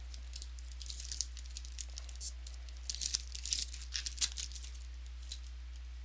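Crinkling and tearing of a trading card pack wrapper being ripped open, a scatter of sharp crackles that thickens about three seconds in and stops near the end, over a steady low electrical hum.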